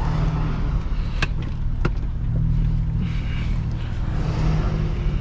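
A 2005 Acura TL's 3.2-litre V6 running steadily at idle, heard from inside the cabin. Two sharp clicks come about a second and two seconds in.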